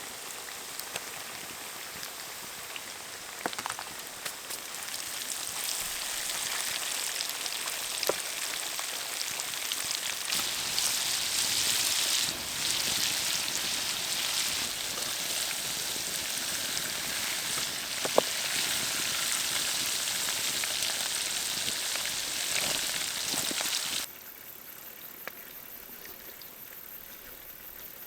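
Food frying in hot oil: a dense steady sizzle with scattered pops, growing louder a few seconds in and dropping away suddenly near the end.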